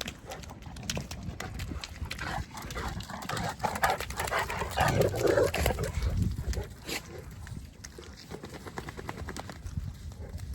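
A Boerboel vocalising, loudest from about two and a half to six seconds in, with many short clicks and knocks throughout.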